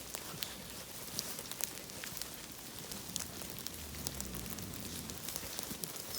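Steady rain falling, with scattered sharp ticks of drops striking close by.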